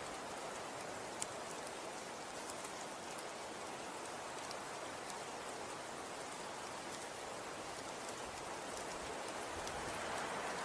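Falling snow: a steady soft hiss sprinkled with faint ticks of flakes landing, with one sharper tick about a second in.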